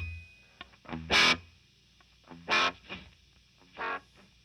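Electric guitar note echoed by a Benson Delay pedal set to its longest delay time: three repeats about 1.3 seconds apart, each quieter than the last.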